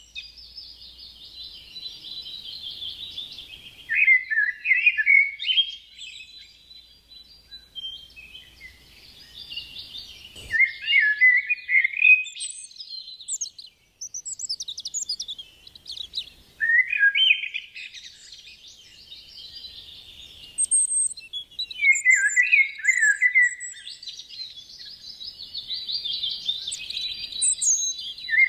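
Songbirds singing: a run of twittering song phrases, each a few seconds long and ending in louder, lower notes, repeated about five times with short pauses between.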